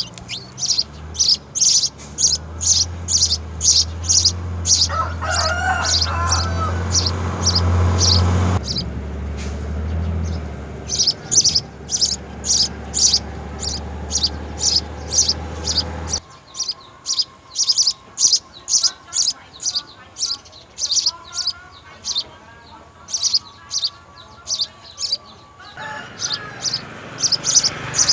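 Small birds chirping: short, high chirps repeated a few times a second, with a low hum underneath that cuts off suddenly about halfway through.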